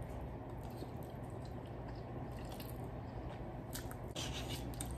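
Close-up wet chewing of a mouthful of spaghetti in tomato sauce, with small scattered mouth clicks, over a low steady hum.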